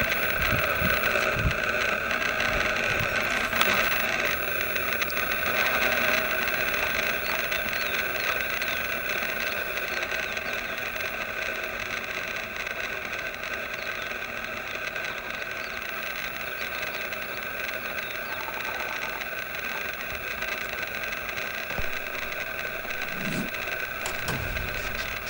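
Light aircraft engine running steadily, a drone with a high whine over a low rumble, easing slightly in level.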